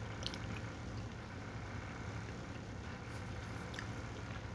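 A person chewing dry shoestring fries: a few faint crunches over a steady low hum.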